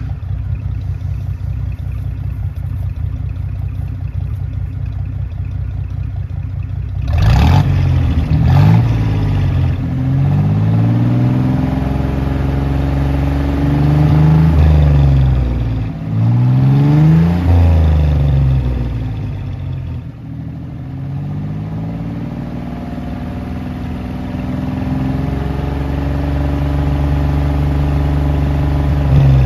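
The exhaust of a 1971 Jeep CJ5's Dauntless V6, running through 2-inch Flowmaster Super HP-2 mufflers and tailpipes. The engine idles, then about seven seconds in it is blipped twice quickly. It is then revved up and let fall back twice, and settles to idle with a slight rise near the end.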